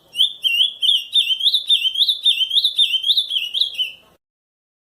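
Ultramarine grosbeak (azulão) singing the camaquã song type: a fast run of repeated clear whistled notes, each slurring up and down, about three a second. The song stops abruptly about four seconds in.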